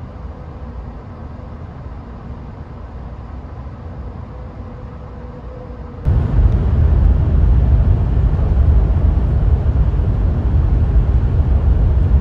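700-series Shinkansen train noise: a steady low hum with a faint held tone, then about halfway through a sudden switch to much louder, even rushing and rumbling.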